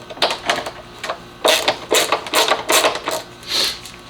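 Irregular clatter of hard objects being handled: a quick run of sharp clacks and rattles, busiest in the second half, like tools and parts being picked up and set down.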